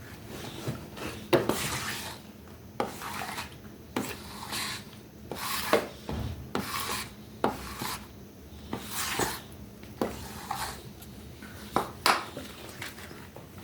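Repeated hand rubbing or scraping strokes on a hard object, irregular at about one a second, with a few sharp clicks, the loudest about a second in.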